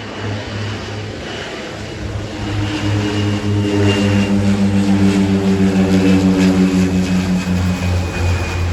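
An aircraft's engines passing close by: they swell to a peak a few seconds in, their tone sliding slowly lower as the aircraft goes past, over a steady low hum.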